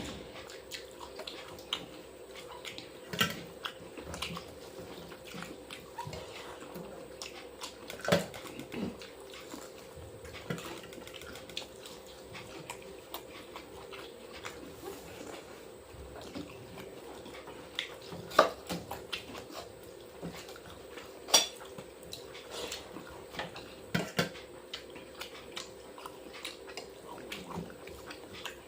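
Eating at a meal: scattered clicks and clinks of plates and dishes, with soft sounds of biting and eating, over a steady low hum. A few sharper clinks stand out, about 8 seconds in and twice more later on.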